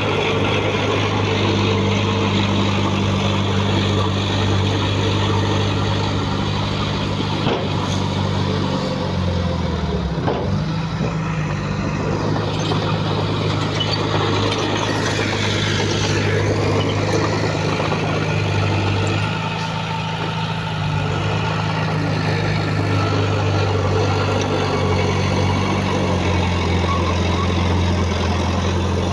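Heavy earthmoving machine's diesel engine running steadily, its pitch shifting briefly about ten seconds in, with a faint high whine gliding up and then down near the middle.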